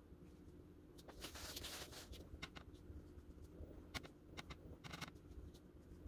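Washing machine running with a faint steady low hum, under light scratching and tapping of drawing tools on paper, with a short cluster of scratches about a second in and single ticks later.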